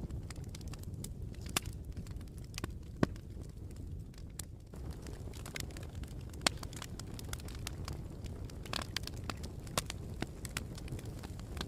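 Campfire crackling: irregular sharp pops and snaps, a few louder than the rest, over a steady low rumble.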